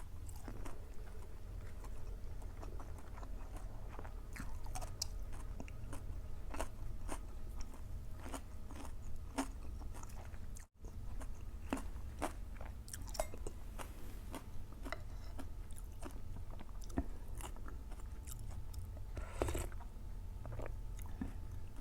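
Kitchen food-preparation noises: many irregular, crisp clicks and crunchy scrapes over a steady low hum, broken off briefly near the middle.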